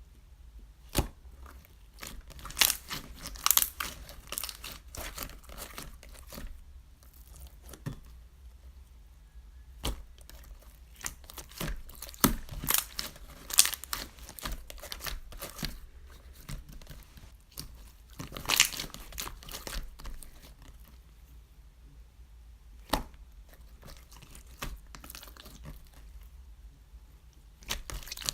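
Hands handling crinkly packaging material at close range: irregular spells of rustling, crinkling and tearing, with a few sharp clicks and quieter pauses between.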